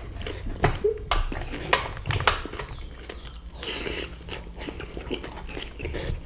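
Close-miked chewing and biting sounds of people eating parmigiana and cheddar-bacon fries, with irregular short clicks and crackles.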